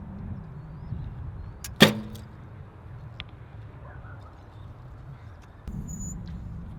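A single shot from a Hoyt Epic recurve bow about two seconds in: a sharp crack of the string's release followed by a brief low hum from the bow. A faint click follows about a second and a half later. Steady wind rumble on the microphone underneath, rising in a gust near the end.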